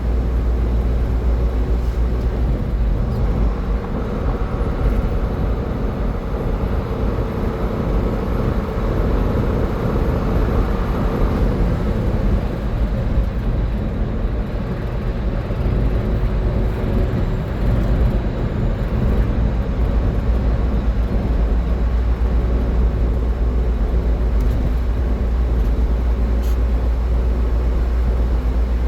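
Car driving at highway speed: steady tyre and road noise with a heavy low rumble. A few seconds in, a brighter hiss swells for about eight seconds, then fades.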